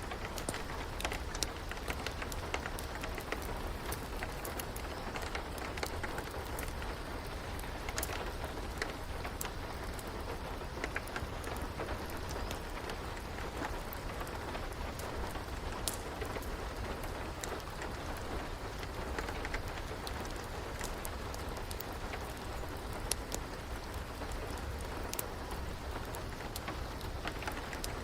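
Steady rain with irregular sharp pops and crackles from a wood fire scattered through it.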